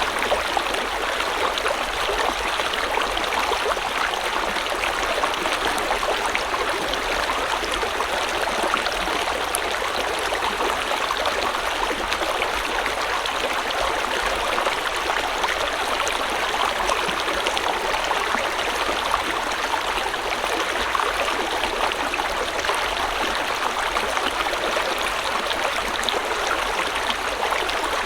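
River water flowing over rocks: a steady, even rush with fine splashing and gurgling and no change in level.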